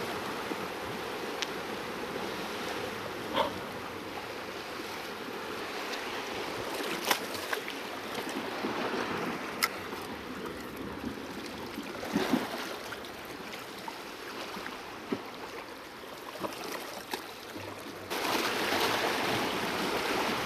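Seawater washing and lapping against shoreline rocks, a steady wash with a few sharp clicks and knocks scattered through it. The wash grows suddenly louder near the end.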